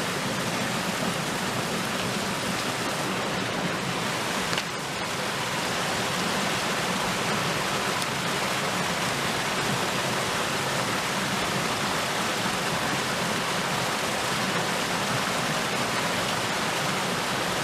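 Mountain headwater stream rushing steadily over rocks, with a brief click about four and a half seconds in.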